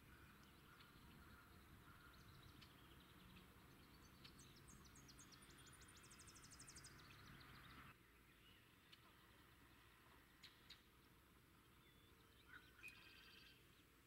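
Faint wild birds chirping over quiet outdoor background noise, with a rapid high trill about five to seven seconds in and a few short chirps near the end. The background noise drops abruptly about eight seconds in.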